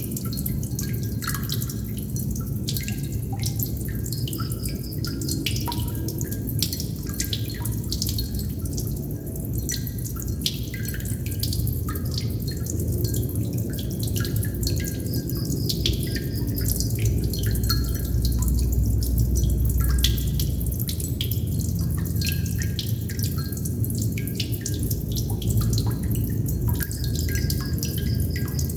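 Water droplets dripping at an irregular pace, each a short plink, some with a brief ringing pitch, over a steady low rumble.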